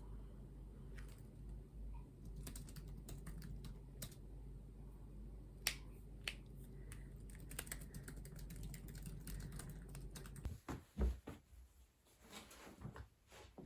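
Scattered light clicks and taps of small objects on a desk, like typing, over a steady low hum. The hum stops about ten seconds in, and a few louder knocks follow.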